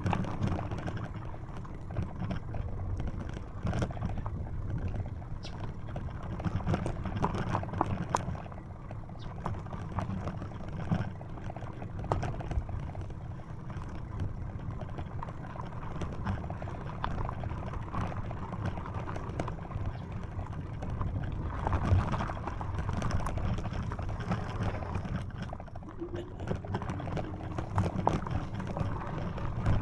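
Bicycle ridden along a dirt road, heard from a handlebar-mounted camera: steady tyre noise with many small clicks and rattles from the bike. A low rumble of wind runs under it.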